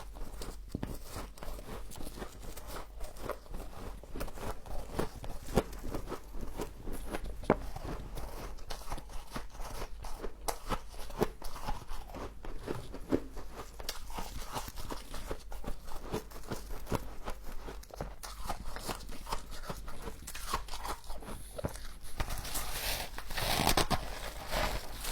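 Humidifier frost crunched and chewed close to the microphone: a continuous run of crisp, crackling bites, getting louder near the end.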